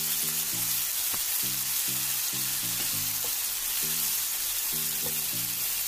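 Chopped onions, tomatoes and green chillies sizzling in hot oil in a frying pan as they are stirred and cooked down until soft. A steady hiss runs throughout, under background music made of short, evenly repeated low notes.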